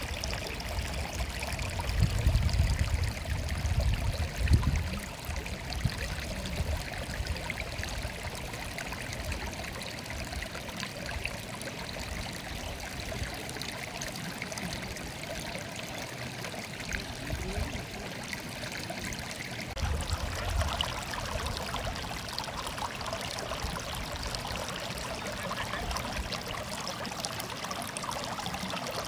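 Stream water murmuring and babbling steadily, with brief low rumbles a couple of seconds in and again about two-thirds of the way through.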